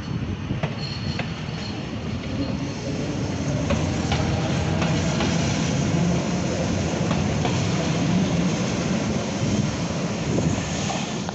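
Cumana ET.400-series electric train (ET.407) rolling out along the platform and away: a steady low hum of the train with wheels clicking over rail joints. It grows louder over the first few seconds, holds, then eases near the end.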